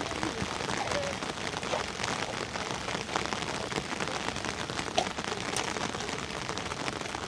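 Heavy rain falling steadily: an even hiss with many sharp individual drop impacts.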